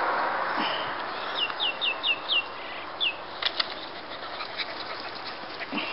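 A small bird calling: a quick run of five high, falling chirps, then one more a moment later. A few light clicks follow.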